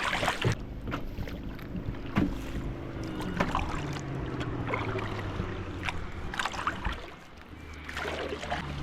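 Kayak moving on a river: scattered paddle dips and water splashes, with a low steady hum underneath.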